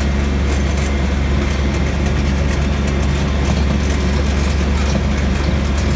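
Tractor engine running at a steady speed: a loud, even low drone that holds constant throughout.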